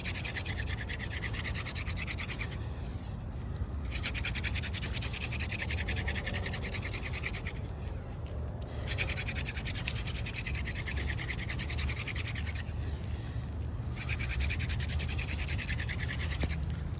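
Hand-drill fire-making: a wooden spindle spun back and forth between the palms, grinding into the notch of a crepe myrtle hearth board. The rapid scratchy rubbing comes in four bouts of about three to four seconds, with a short break of about a second between them as the hands go back up the spindle.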